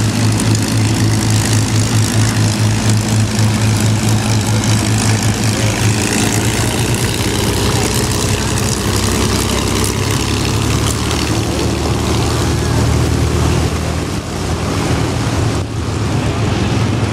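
Avro Lancaster's four Rolls-Royce Merlin piston engines droning steadily as the bomber flies past, the drone dropping slightly in pitch about halfway through.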